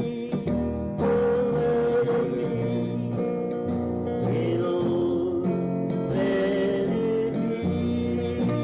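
Country-style gospel music from a small group, with guitar and a stepping bass line.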